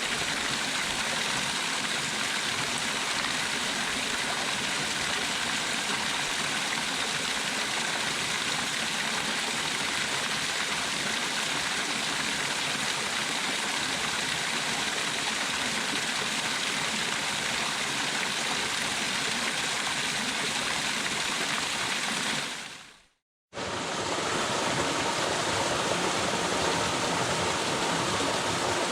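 Waterfall: a steady rush of falling water that fades out about 23 seconds in, falls silent for under a second, then comes back just as steady.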